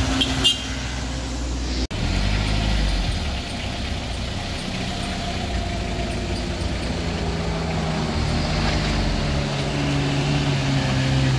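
Motor vehicle engine running at low revs, a steady hum that breaks off abruptly for an instant about two seconds in, then picks up again and rises slowly in pitch toward the end.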